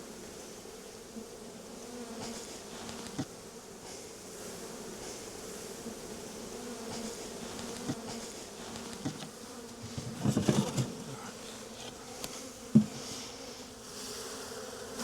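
Honey bee swarm buzzing with a steady hum, broken by a few sharp knocks, the loudest about thirteen seconds in, and a louder burst of rough handling noise around ten seconds in.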